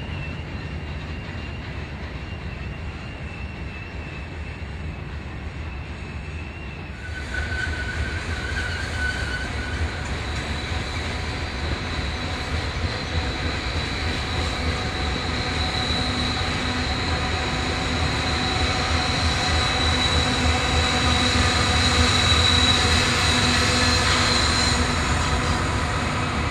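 Freight train of loaded coal hopper cars rolling past, its wheels rumbling on the rails with a steady high-pitched wheel squeal. Distant at first, it is heard close up from about seven seconds in and grows louder toward the end.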